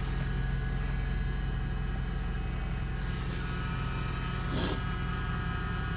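Vehicle engine idling steadily while still cold, just after a cold start. A brief burst of noise sounds about four and a half seconds in.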